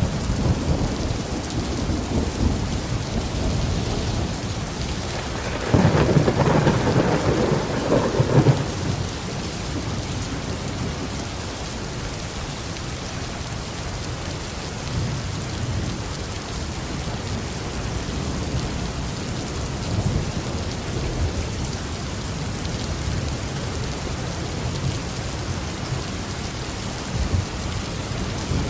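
Steady heavy rain on a roof with rolling thunder. Low rumbles in the first few seconds. A loud peal of thunder about six seconds in lasts around three seconds, and another rumble begins near the end.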